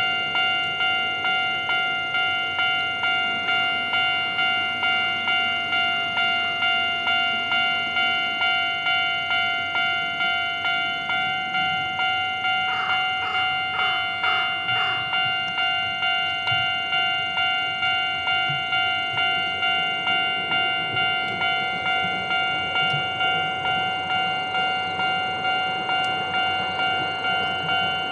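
Railway level-crossing alarm bell ringing steadily, about one and a half strikes a second, with a short burst of louder sound in the middle. Near the end the noise of the approaching steam train, C58 363, builds under the bell.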